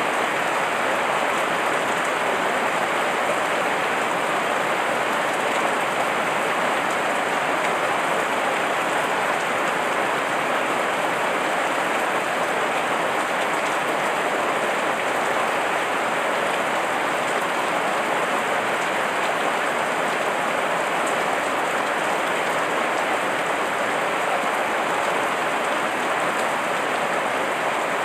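Heavy rain falling steadily, an even downpour that does not let up.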